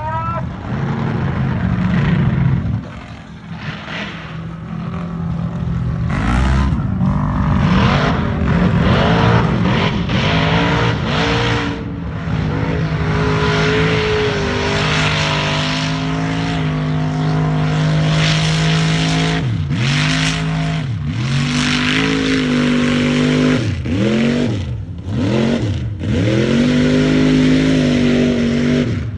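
Chevy truck's engine revving hard: a run of rising revs, a few seconds held at high revs, then repeated throttle blips where the revs drop and climb again about once a second.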